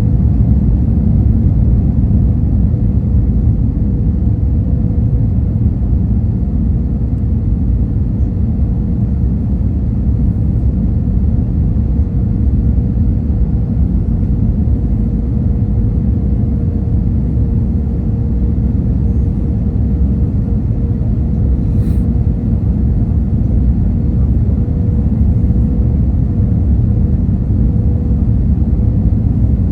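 Steady low rumble of an airliner with a constant mid-pitched hum over it, and one brief click about three-quarters of the way through.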